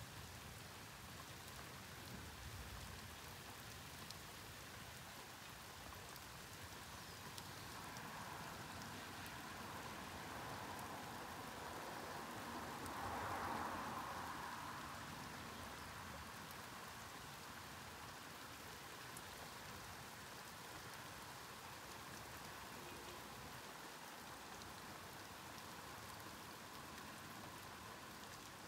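Steady rain falling, an even hiss. About halfway through, a louder wash of noise swells up and fades away again over several seconds.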